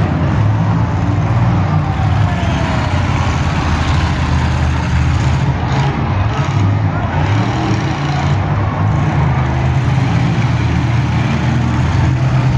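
Several demolition derby cars' engines running loudly at once and revving as the cars push against one another, a continuous low engine sound.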